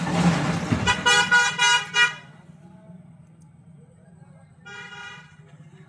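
Vehicle horn honking: a loud rush of noise, then several short toots about a second in, and one fainter toot near the end.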